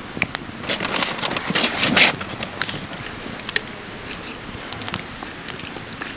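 Wood campfire crackling, with irregular sharp snaps over a steady hiss, and a louder stretch of hissing about one to two seconds in.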